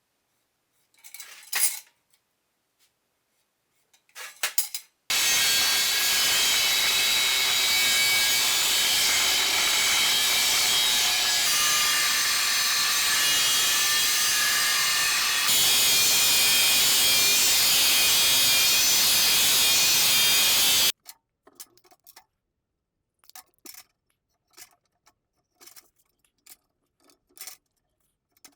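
Power saw cutting steel tubing: a loud, steady cutting noise that starts about five seconds in, gets louder partway through, and cuts off suddenly after about sixteen seconds. Scattered light clicks and knocks of metal pieces being handled come before and after it.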